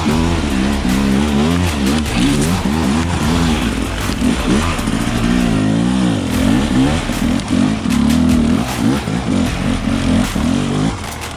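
Dirt bike engine revving up and down while being ridden, its pitch rising and falling repeatedly; it eases off near the end.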